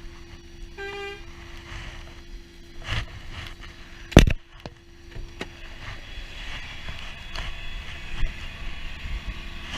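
A truck engine idling steadily. A short pitched beep sounds about a second in, and a single loud sharp knock comes about four seconds in.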